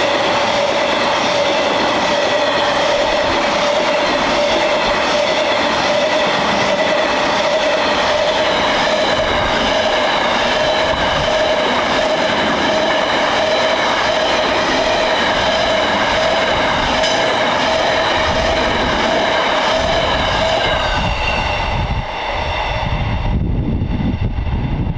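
A long train of hopper wagons rolling past: steady wheel-on-rail noise with a rhythmic clickety-clack and a sustained whine from the wheels. About 23 seconds in, the last wagon passes, the whine and clatter cut off, and a low rumble is left.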